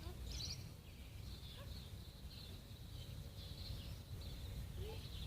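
Small birds chirping over and over in the background, above a steady low rumble.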